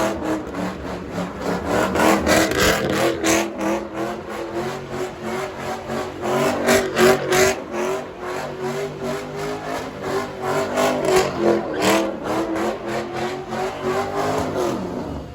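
Car engine held at high revs, its pitch wavering up and down with sharp crackling over it, then dropping away near the end.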